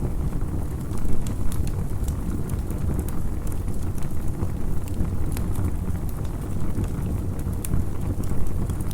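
Campfire crackling, with many irregular sharp pops and snaps over a steady low rumble of wind.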